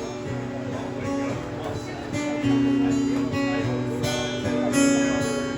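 Acoustic guitar strumming chords in an instrumental break of a live song, with several strums ringing on.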